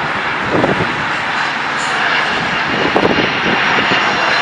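Boeing 737-200 jetliner's Pratt & Whitney JT8D engines passing close by, a loud, steady rushing jet noise with a faint high whine that grows towards the end.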